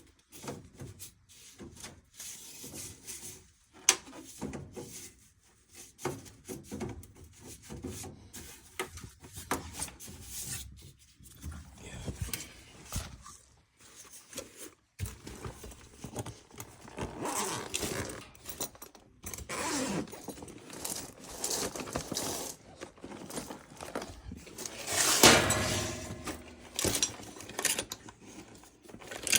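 Hands working on a gas furnace: irregular clicks, rattles and metal scrapes as tools and parts are handled. There is a sharp click about four seconds in, and a louder rush of scraping noise lasting a second or two near the end.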